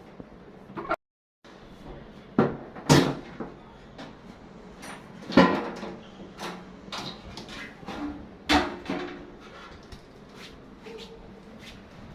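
Irregular knocks and clunks of hard parts being handled, like panels or components of a washing machine being taken apart, about a dozen of them with the loudest around three, five and eight seconds in. There is a brief cut to total silence about a second in.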